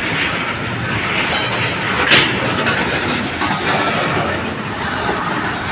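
Loaded coal hopper wagons rolling past at close range: a steady rumble of wheels on rail, with a single sharp clank about two seconds in.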